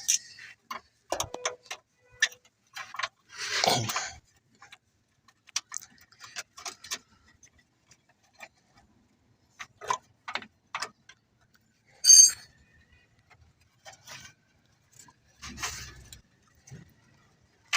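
Irregular small clicks, taps and clinks of hands and tools working the O2 sensor and plugging in its wiring connector. There is a heavier knock about 4 s in and one sharp, high metallic clink about 12 s in.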